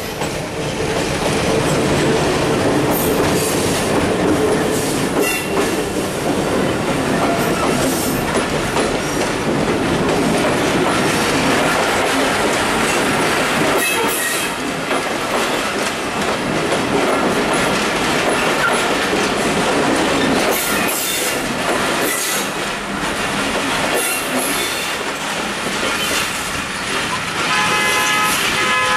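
Passenger train coaches rolling past close by: a loud, steady rumble of wheels on the rails with rhythmic clatter over the rail joints. A horn toots near the end.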